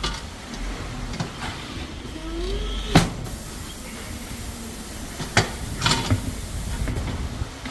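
Tyre changer machine working a tyre off an alloy wheel. A low motor hum for the first three seconds ends in a sharp metallic knock, the loudest sound, followed by several lighter knocks and clanks.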